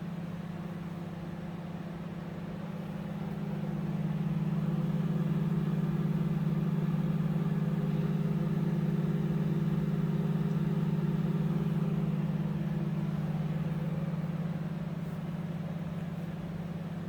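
Whirlpool MagiCook 20-litre solo microwave oven running at full power, heating water: a steady low hum from the magnetron and cooling fan that swells a little in the middle and eases off again near the end.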